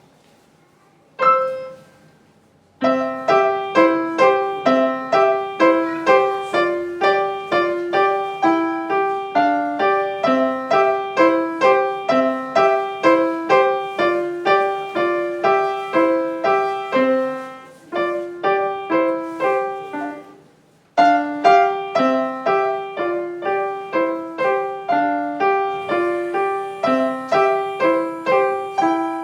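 Solo piano playing. A single note sounds about a second in, then a steady, evenly paced run of notes starts at about three seconds and continues, with two short pauses late on.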